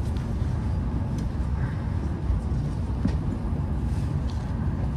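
Steady low running rumble of a Hokuriku Shinkansen E7-series train, heard from inside the passenger cabin, with a few faint clicks.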